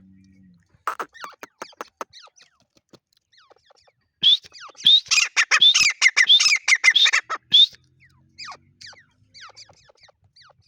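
Grey francolin (desi teetar) calling. A run of sharp calls about a second in is followed by a loud, fast burst of repeated high ringing notes from about four seconds to nearly eight, which trails off into fainter calls.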